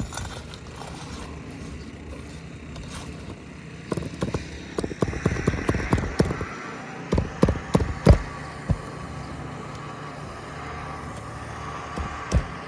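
Hand tools scraping and knocking against asphalt shingles and roofing nails as the nails are worked loose, a run of sharp taps and scrapes through the middle and another pair of knocks near the end, over a steady background noise.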